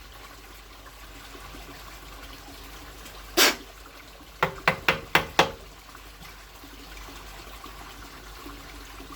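Kerosene trickling steadily, with a short scraping rasp partway through followed by four quick sharp clicks.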